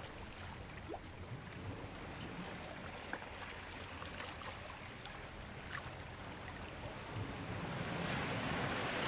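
Ocean waves washing on a shore: a steady hiss of moving water that eases off mid-way and swells louder over the last couple of seconds as the next wave comes in, with a few small scattered clicks and trickles.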